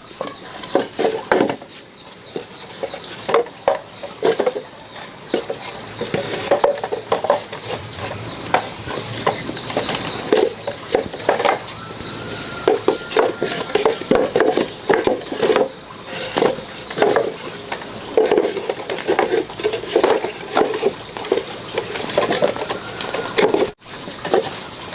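Irregular knocking and clattering of wooden pieces, many short hits at uneven intervals.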